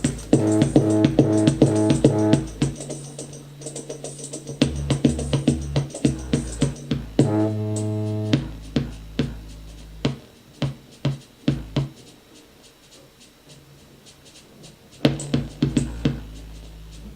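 Electronic music with a drum-machine beat, synth chords and deep bass notes, played through a Sansui T18 portable Bluetooth speaker with a built-in subwoofer. The track thins out and gets quieter about halfway, with one loud hit near the end.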